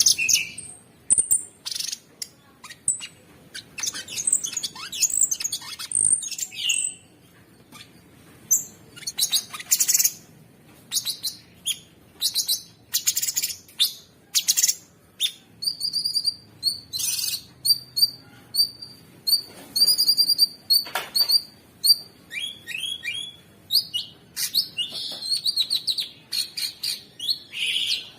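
Cucak sungkok songbird singing a busy, harsh song of high chirps and trills with short pauses between phrases, including runs of rapidly repeated notes through the middle.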